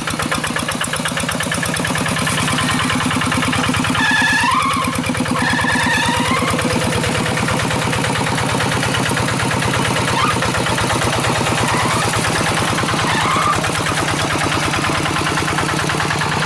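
Single-cylinder diesel engine of a Quick G1000 two-wheel hand tractor running steadily under load in mud, with a fast, even firing beat.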